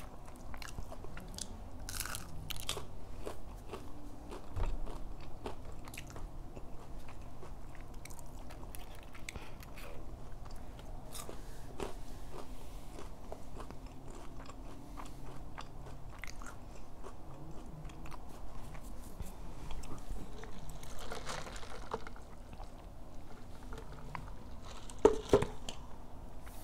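Close-up chewing and biting of McDonald's chicken nuggets, with light crunching and many small clicks throughout; two sharper clicks near the end.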